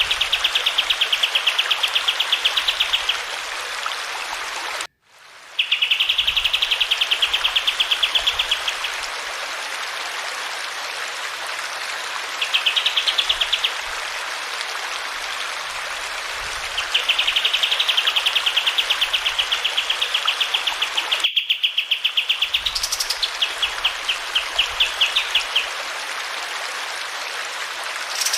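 Kapas tembak song: rapid buzzing trills, several phrases of a few seconds each, with a rising note and a stuttering run of notes near the end, over steady running water. The sound drops out for a moment about five seconds in.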